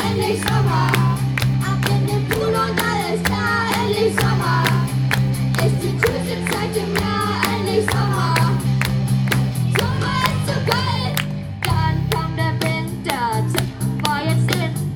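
Children's band playing a song, with children singing the melody over a steady drum beat and bass.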